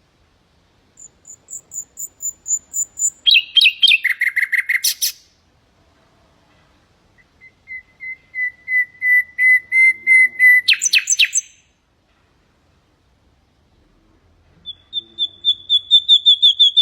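Common nightingale singing three song phrases separated by short pauses. Each phrase is a run of rapidly repeated notes: the first moves from thin high notes into a fast, louder burst. The second is a long run of low piping notes that swells in loudness and ends in a rapid flourish. The third, near the end, is a fast run of mid-pitched notes.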